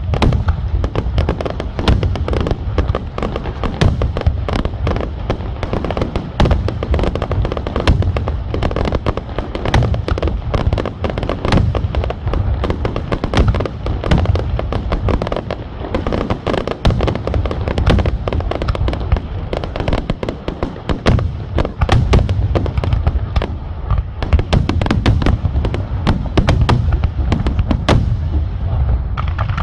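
Aerial fireworks display in a rapid, continuous barrage: many sharp bangs and crackles close together, over deep booming shell bursts.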